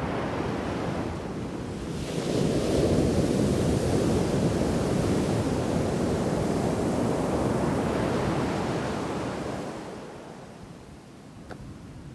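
Shore-break waves crashing on a sand beach: the surf swells up about two seconds in, stays loud for several seconds, then drains away near the end.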